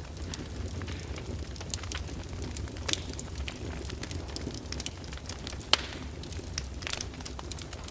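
Wood fire burning in a fireplace, crackling and popping irregularly over a steady low rumble, with one sharper pop just before the end.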